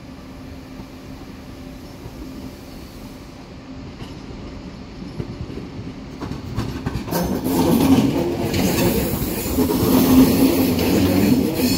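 Frecciarossa 1000 (ETR 1000) high-speed electric train pulling into a station, the sound of its wheels on the rails and its running gear growing much louder about seven seconds in as it draws near.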